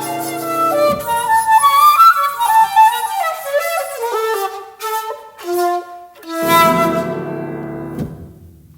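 Shakuhachi (a 1.6-shaku seven-hole bamboo flute) and piano playing the closing bars of a slow piece. A held chord gives way to a falling run of notes, then a last low chord is struck about two-thirds of the way in and rings away to quiet.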